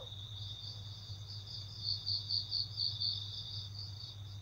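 Insects chirping: a constant high trill with a faster pulsing chirp over it that grows louder for about a second midway, above a low steady hum.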